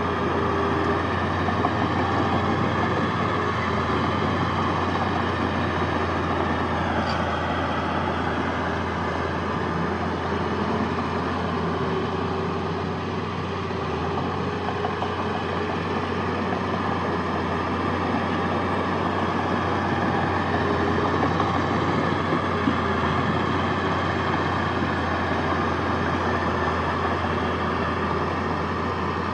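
Heavy diesel engine of earthmoving machinery, a bulldozer or dump truck, running steadily with a deep, even drone.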